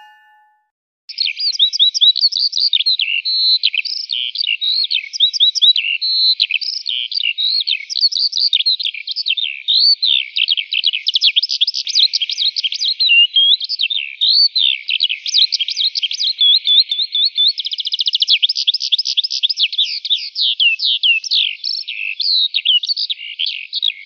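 Bird song: continuous rapid, high-pitched chirping and warbling that starts about a second in, with a fast trill of repeated notes around three quarters of the way through.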